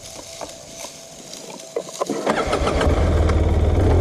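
A few light clicks, then an engine starts a little past halfway and settles into steady running.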